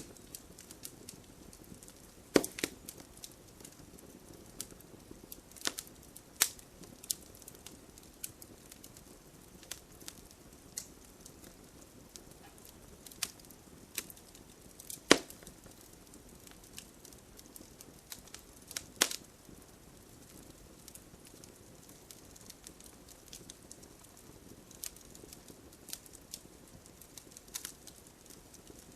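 Campfire crackling: wood burning with scattered small pops and crackles over a faint low hiss, and a few sharper, louder pops, four of them standing out.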